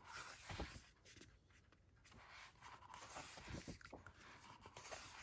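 Faint paper rustling and soft handling clicks as the pages of a booklet are turned by hand.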